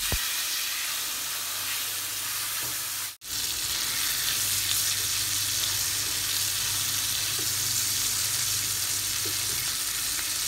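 Chicken breasts sizzling in melted butter in a grill pan over high heat: a steady frying hiss, broken by a brief gap about three seconds in before it resumes.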